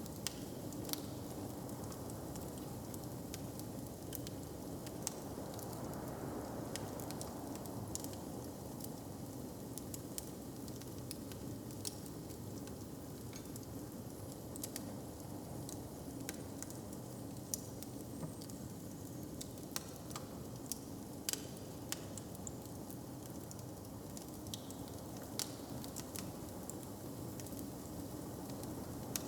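Wood fire crackling, with irregular sharp pops and snaps scattered over a steady, even hiss.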